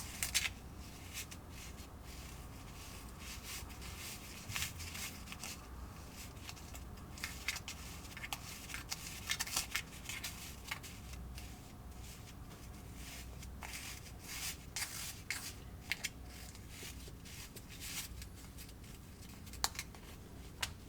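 Hands working with the plastic tray, packets and small utensils of a Kracie DIY candy kit: scattered light clicks, taps and rustling scrapes, busiest in the middle and with a few sharp clicks near the end.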